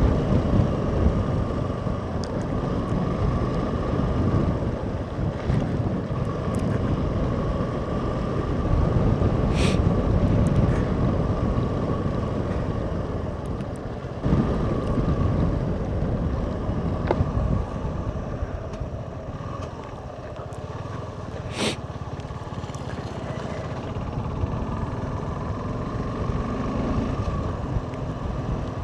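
Heavy wind buffeting on the microphone while riding a Suzuki V-Strom SX 250 through a snowstorm, with the bike's single-cylinder engine running underneath as a steady hum. Two brief sharp clicks come through, one about ten seconds in and one a little past twenty seconds.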